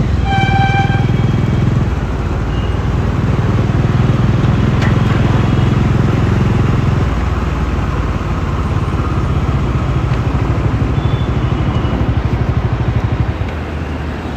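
Bajaj Dominar 400's single-cylinder engine running under way, steady and strong, easing off from about halfway. A vehicle horn toots briefly near the start.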